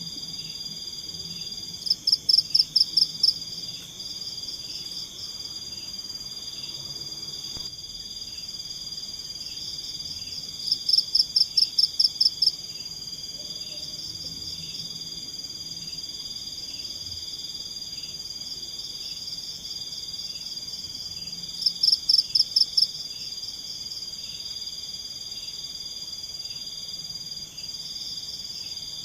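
Night forest chorus of insects and frogs: a steady high-pitched insect drone with a soft regular chirp beneath it, broken three times, about ten seconds apart, by a loud burst of about eight rapid pulsed calls.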